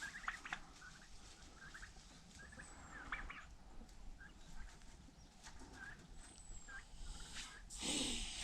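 Bourbon Red turkeys making faint, scattered short calls, with a brief burst of noise near the end.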